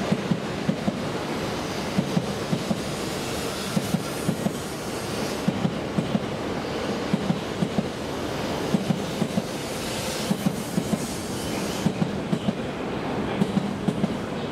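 E7 series Shinkansen train pulling slowly out of the platform, with a steady rushing running noise. Its wheels clack over the track in quick pairs of knocks, about once a second, as each bogie passes.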